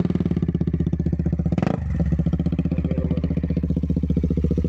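KTM Duke 200's single-cylinder four-stroke engine idling through an Akrapovic full-system exhaust just after starting, a steady fast pulsing beat. A brief sharp noise cuts in about two seconds in, and the idle carries on.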